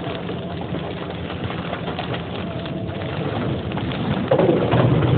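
Steady rain hissing, with a louder, lower sound swelling in about four seconds in.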